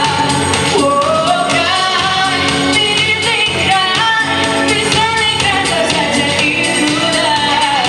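A woman singing a pop song over instrumental accompaniment with a steady beat.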